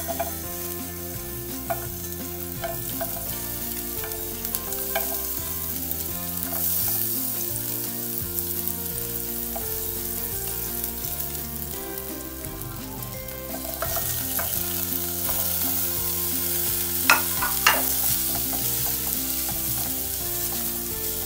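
Chopped onion and then diced calabresa sausage sizzling as they fry in oil in a metal pot, stirred with a silicone spatula. The sizzle grows louder in the second half, with a few sharp knocks of the spatula against the pot.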